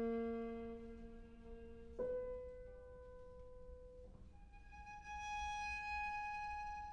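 Viola playing slow, long-held bowed notes that step upward in pitch: a low note that swells and fades, a higher one, then a high note that swells near the end.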